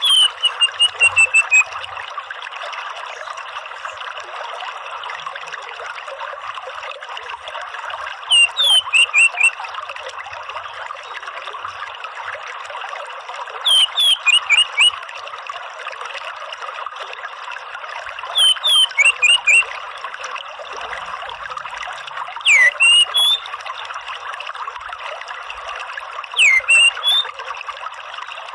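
Orange-headed thrush calling in short phrases of quick whistled notes, six phrases spaced about four to five seconds apart, over a steady sound of running water.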